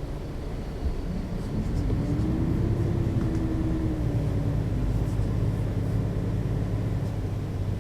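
Engine of a Mercedes-Benz O 530 G Citaro articulated bus with a ZF automatic gearbox, running under way. It gets louder about a second in, and its pitch rises, holds and drops again in the middle.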